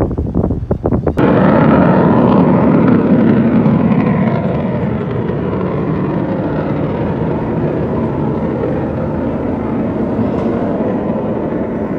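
Jet aircraft flying low past, its engine noise bursting in suddenly about a second in and then slowly fading. Wind buffets the microphone before the jet arrives.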